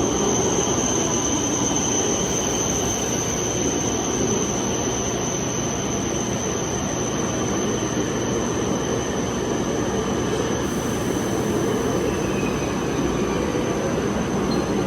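413 series AC/DC electric multiple unit pulling out and running on, a steady rumble of wheels on rail and traction equipment, with a faint steady high-pitched tone above it.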